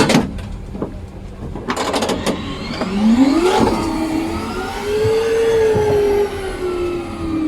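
A few knocks, then a machine whine on an airliner that rises in pitch about three seconds in, holds steady and begins to fall away near the end.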